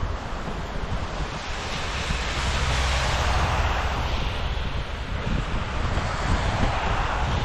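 Wind rushing over the microphone of a moving bicycle, with a low buffeting rumble. The rushing swells about two seconds in and again near the end.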